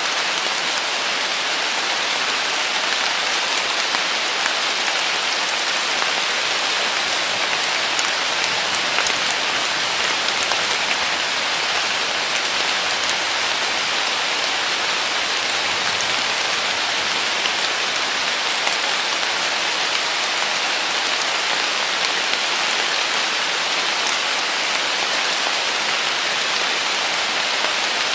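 Heavy summer rain falling steadily on willow leaves and the ground, a dense even hiss of drops with a few sharper drop ticks about eight to nine seconds in.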